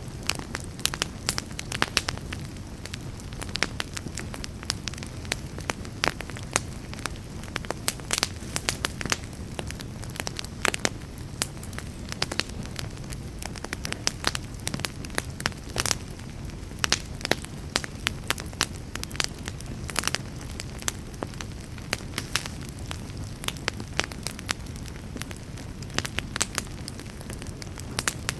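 Wood campfire crackling: a dense, irregular stream of sharp pops and snaps, some louder than the rest, over a steady low rushing noise.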